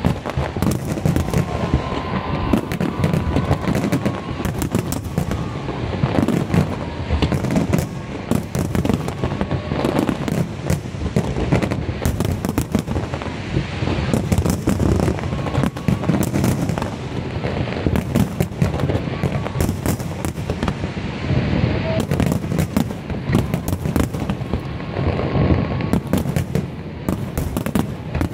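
Fireworks display: a dense, continuous barrage of shells bursting, with rapid bangs and crackling that never let up.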